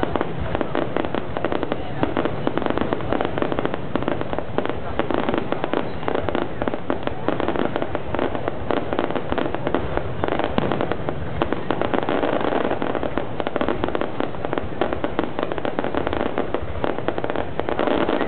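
Fireworks going off in a dense, continuous crackle of overlapping pops and bangs, with no pause.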